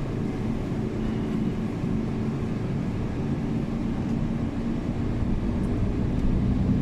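City bus engine running steadily, heard from inside the passenger cabin as a low, even hum.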